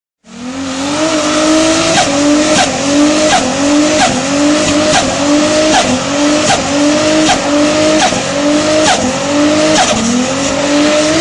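Toyota 2JZ-GTE turbo inline-six held at high revs, with tyres spinning and squealing in a burnout. The engine note climbs and then drops sharply with a crack roughly every 0.8 s, over a steady hiss of tyre noise.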